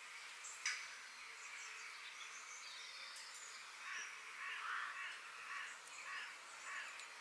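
Forest birds calling and singing over a steady background hiss: short high chirps throughout, and from about four seconds in a run of louder, harsher calls. A single sharp click comes a little under a second in.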